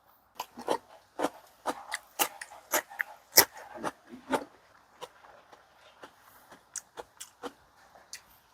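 Close-miked eating sounds: a quick, irregular run of chewing smacks and small clicks, busiest over the first four seconds and sparser after.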